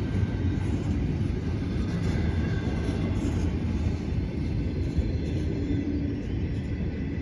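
Train rolling slowly past, a steady low rumble.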